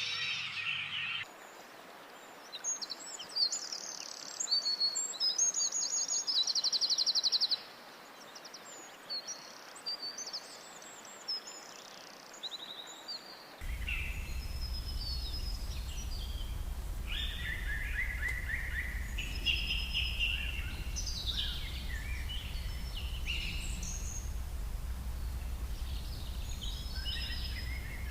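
Wild birds chirping and singing. In the first half, high chirps and a fast rapid trill come over a faint hiss. About halfway the sound changes to a busier chorus of several birds calling over a steady low rumble.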